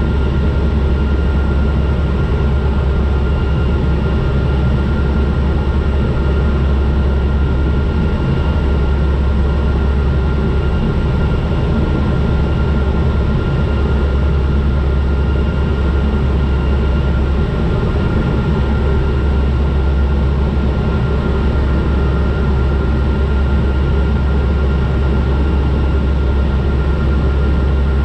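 Turboprop airliner cabin noise on final approach: a steady deep drone from the engines and propellers, with a thin steady whine above it.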